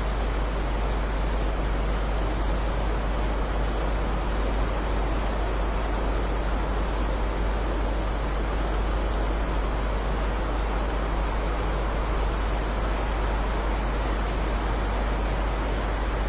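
Steady, even rain noise with no separate drops or thunder standing out, over a strong deep rumble.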